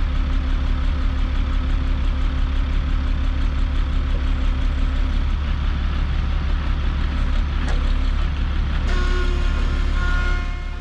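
Log truck's diesel engine running steadily with a deep rumble, powering the truck's log loader. About nine seconds in, several steady tones join in over the engine.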